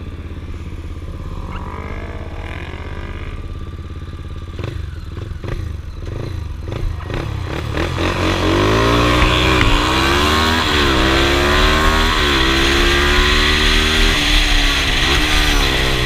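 Motorcycle engine running at a low, steady idle, then pulling away. Its pitch climbs and drops back at each gear change as it accelerates, with a rushing noise building as speed rises.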